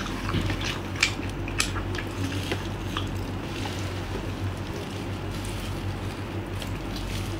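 Close-up eating sounds of someone biting, tearing and chewing a spice-coated octopus tentacle: scattered wet mouth clicks and squishes over a low steady hum.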